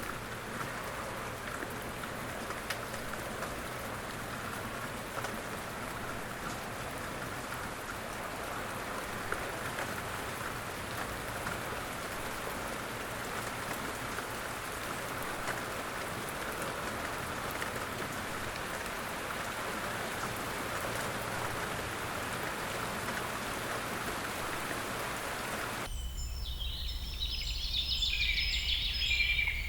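Steady rain falling, an even hiss with the patter of drops. Near the end it cuts off abruptly and gives way to birds chirping over a low steady hum.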